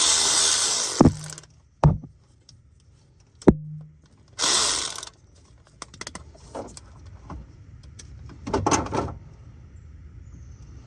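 A power tool spinning in short bursts, three times, between sharp metal knocks and clinks: fasteners being worked loose or run in on the car.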